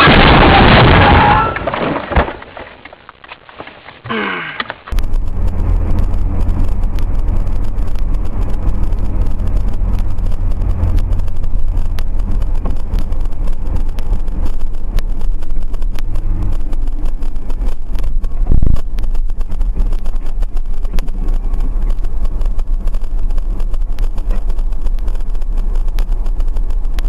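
Music fading out, then the sound of a car on the road as a dashcam hears it: a steady low rumble with many small clicks and rattles, and a single louder thump about two-thirds of the way through.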